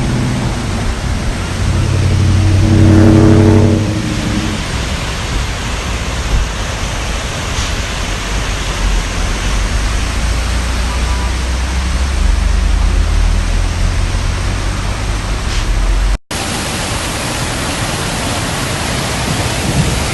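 Steady rushing noise of floodwater and rain, with a vehicle engine swelling and passing about two to four seconds in. The sound cuts out for an instant near the end, then the rushing carries on.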